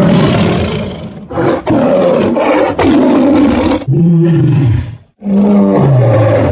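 Tiger roaring: several loud, rough roars, then two deeper pitched roars that drop in pitch, with a brief break between them.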